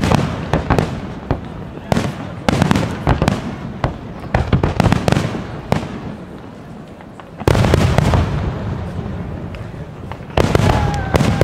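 Aerial fireworks display: shells bursting one after another with crackle in between, and several heavy booms, the loudest about seven and a half seconds in.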